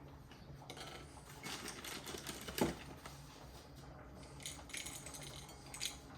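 Kitchen utensils and dishes being handled on a counter: irregular small clicks, taps and scrapes, with one louder knock about two and a half seconds in.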